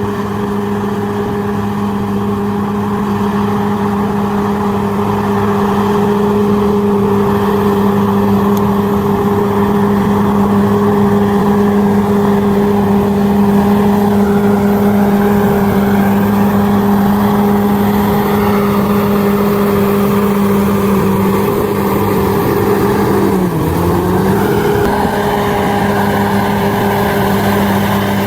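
Bulldozer's diesel engine running steadily under power, its pitch briefly dropping and recovering a little before the end.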